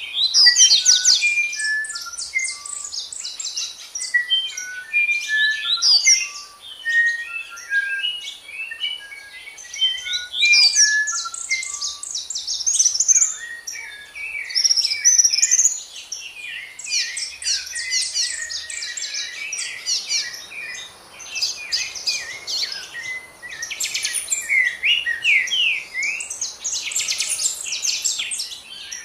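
Several birds singing at once: dense, overlapping high chirps and trills, with a series of short, clear whistled notes in the first half.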